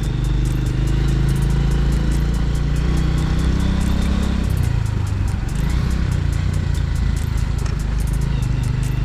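Single-cylinder engine of a 112 cc TVS Victor motorcycle running on the move, its steady low note dropping and wavering about halfway through and settling again near the end.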